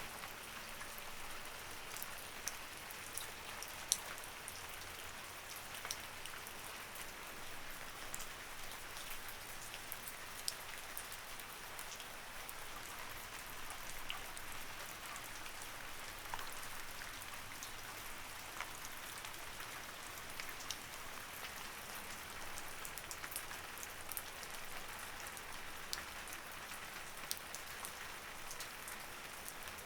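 Light rain falling steadily, an even hiss with scattered sharp drip clicks throughout.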